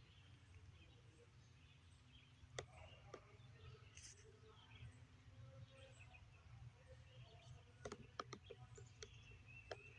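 Near silence: faint outdoor ambience with scattered distant bird chirps over a low steady rumble, and a few sharp clicks, most of them close together near the end.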